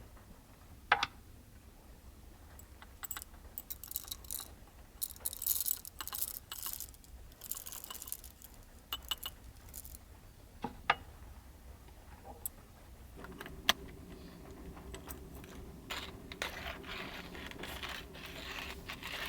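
Small hard objects being handled: scattered sharp clicks, clinks and a light jangle, with bursts of rustling. About two-thirds of the way through, a low steady hum starts and keeps going under the clicks.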